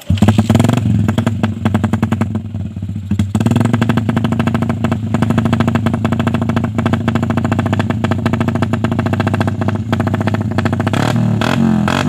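Yamaha Jupiter MX's single-cylinder four-stroke engine through a Pro Liner aftermarket exhaust, catching suddenly and running loud with a fast, even exhaust beat. Near the end the pitch starts to rise and fall as the throttle is blipped.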